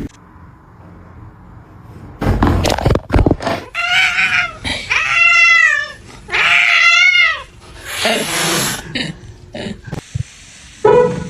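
A domestic cat giving about three long, drawn-out meows, each rising and then falling in pitch, after a few knocks. A short noisy burst follows near the end.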